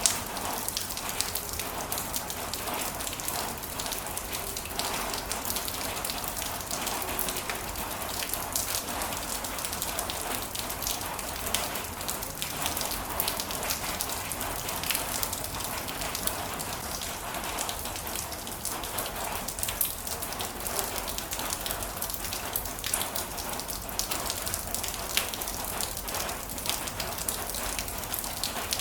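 Heavy rain falling steadily, with a dense patter of individual drops hitting a surface.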